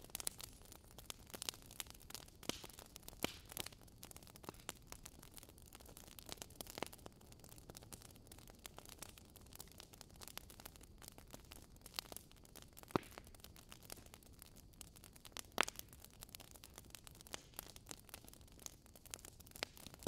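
Large wood-and-brush bonfire crackling, with irregular sharp snaps and pops over a faint low rumble. Two louder pops stand out in the second half, under three seconds apart.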